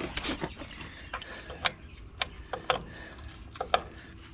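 A handful of sharp metal clinks and scrapes of a pipe wrench being fitted to and worked on a rounded-off oil drain plug.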